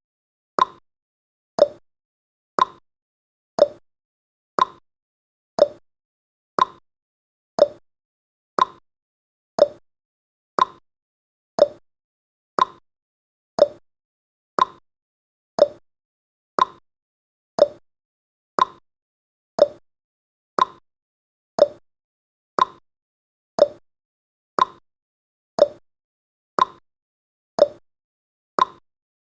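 Countdown timer's clock tick sound effect: a sharp tick-tock, one tick every second, steady throughout.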